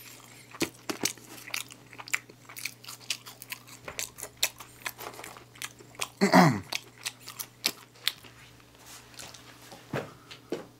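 Close-up crunchy chewing of crispy McDonald's fried chicken nuggets and fries, with many small crisp crunches. About six seconds in, a short hum of the voice falls in pitch, and a briefer one comes near the end.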